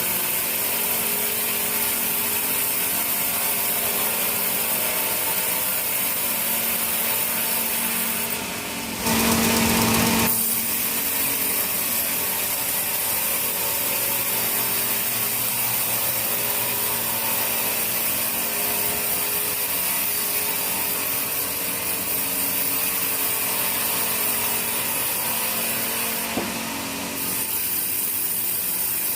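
Sawmill machinery running continuously, a steady mechanical drone with hiss and hum, getting louder for about a second around nine seconds in.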